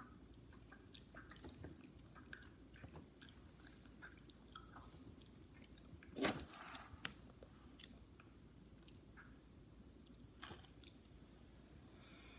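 Faint close-up chewing and small mouth clicks of people eating soft bánh in rice-flour cake, with one louder knock about halfway through.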